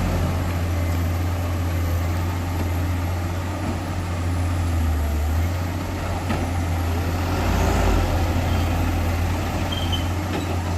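Heavy diesel engine of the earth-moving equipment running steadily, a deep continuous hum.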